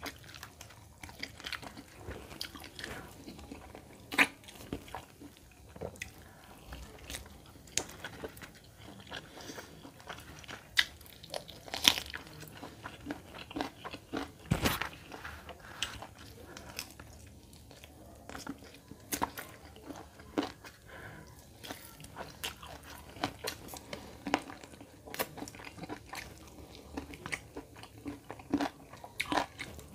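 A person chewing and biting into chicken curry and rice eaten by hand, close-up mouth sounds with many short sharp clicks throughout.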